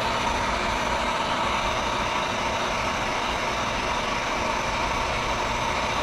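Electric heat gun blowing steadily: a whirring fan and rushing hot air with a faint steady tone, warming a tank badge to soften the 3M adhesive tape behind it.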